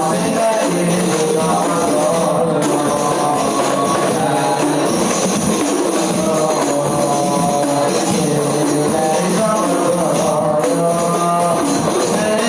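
Rebana frame drums played together in a steady rhythm, with voices singing a melody over them.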